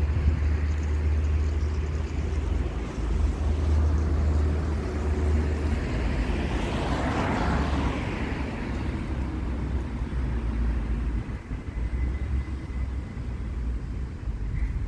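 City street traffic: a vehicle passes by, its noise swelling to a peak about seven seconds in and then fading. A steady low rumble runs underneath.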